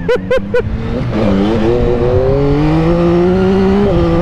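Yamaha XSR900's three-cylinder engine blipped several times in quick succession. It then pulls hard under acceleration, its pitch climbing steadily, and drops suddenly near the end at an upshift.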